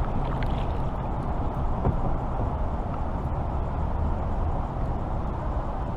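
A motor vehicle's engine running steadily at idle, a low, even rumble.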